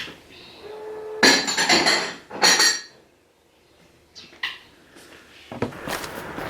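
Dishware clinking and clattering in two loud bursts with a ringing edge, about a second in and again around two and a half seconds. From about five and a half seconds there is a steady shuffling noise with scattered clicks.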